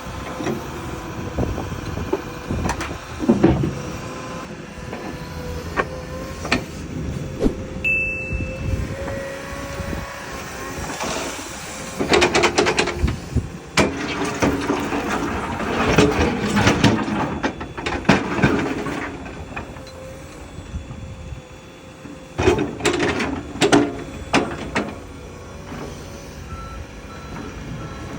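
Komatsu tracked excavator running and driving, with its travel alarm beeping, as it tracks onto a low-loader trailer. Clusters of knocks and clanks come around the middle and again later.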